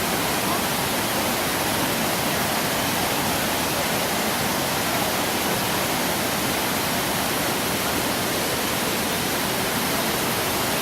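Waterfall water falling and rushing, a steady, even roar.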